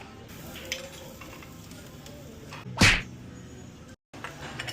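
A single sharp swoosh about three seconds in, far louder than the low restaurant background, followed a second later by a brief complete dropout of the sound.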